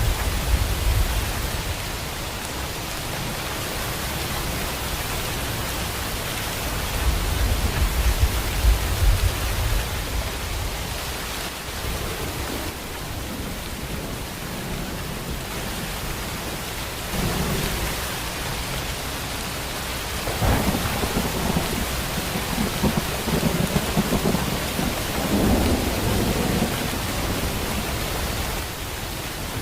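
Steady heavy rain, a continuous even hiss, with rolling thunder rumbling through it: low rumbles near the start and again about a quarter of the way in, then repeated rumbles through the second half.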